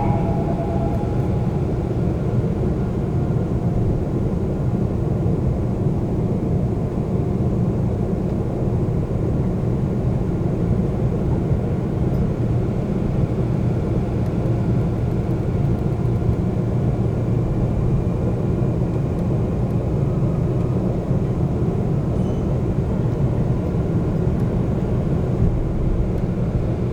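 Seoul subway train running, heard from inside the car: a steady, low rumble of wheels and running gear on the rails. A faint high whine rises slowly in the second half.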